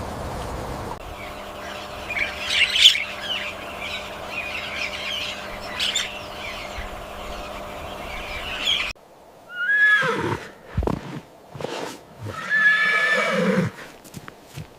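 Animal calls: about nine seconds of scratchy, squawking cries over a steady background hum, then an abrupt change to a quieter background with a few separate pitched calls, the longest held for about a second near the end.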